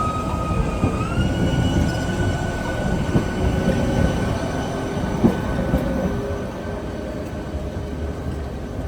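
Tatra tram running on street track with a rumbling rattle and a steady high-pitched whine that steps up slightly in pitch about a second in, then gradually fading.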